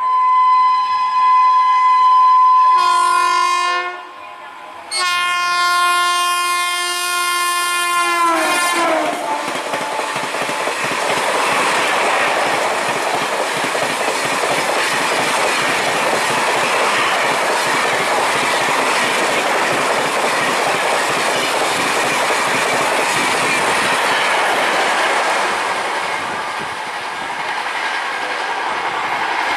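Horn of a passing Indian Railways express train sounding in long blasts, broken by a short gap about four seconds in, its pitch dropping as it goes by at about eight seconds. The train then runs past at speed with a steady rush of wheels on rail and clickety-clack over the rail joints.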